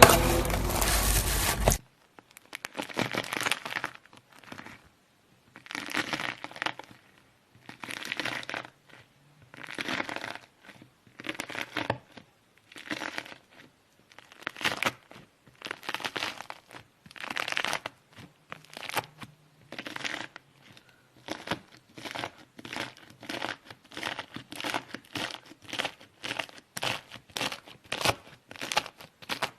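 Knife slicing repeatedly through crunchy slime, each cut a short crackling crunch; the cuts come about once a second at first and quicken to about two a second in the second half. Music plays at the very start and cuts off about two seconds in.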